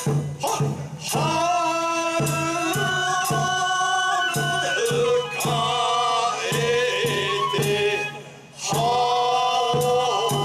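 Bangaku folk-theatre music: a melody of long held notes, broken by two short pauses, over steady struck percussion beats about twice a second.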